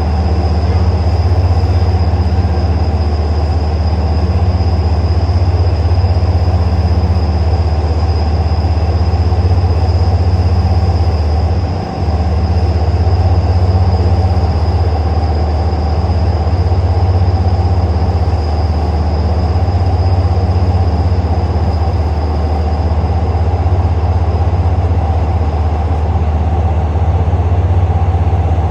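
A train running steadily: a constant heavy low rumble with a thin high whine over it that fades away near the end.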